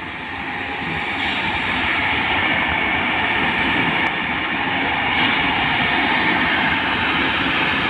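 Train running along the track: a steady rush of wheel-on-rail noise heard from aboard, growing louder about a second in and then holding steady.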